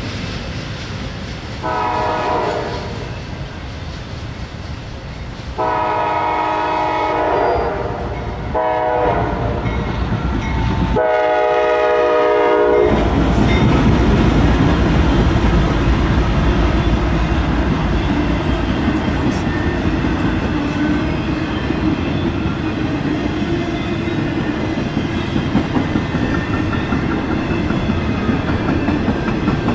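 Diesel locomotive horn blown four times for a grade crossing, the third and fourth blasts close together, then a train rumbling and clattering steadily past.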